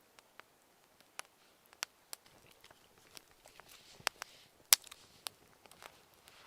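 Wood fire crackling: irregular sharp pops and snaps, the loudest a little under five seconds in.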